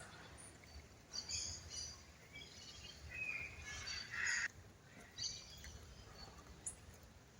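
Wild birds chirping in several short bursts of high calls, the loudest about four seconds in, over a low steady outdoor rumble.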